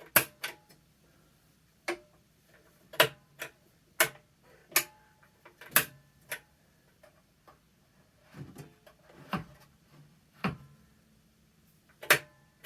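About a dozen sharp, irregular clicks from the on-off switch of a vintage Eureka commercial upright vacuum being worked and handled. No motor sound follows: the vacuum is not starting.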